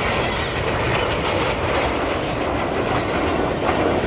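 Steady rushing roar of the Red Arrows' BAE Hawk jets passing in display flight.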